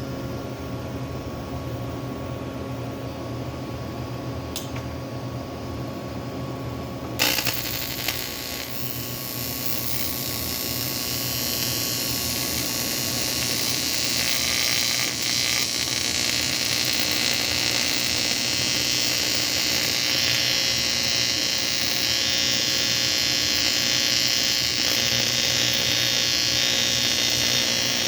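A welding arc on an aluminum AFR cylinder head strikes about seven seconds in. It gives a steady crackling hiss that swells over several seconds and then holds, over a constant low electrical hum.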